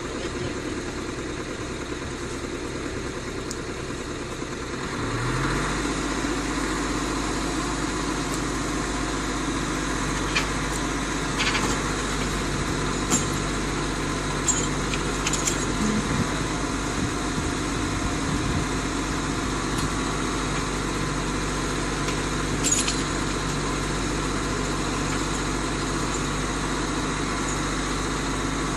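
Heavy vehicle engine running steadily, rising in pitch and getting louder about five seconds in, then holding at the higher speed, with a few short clicks.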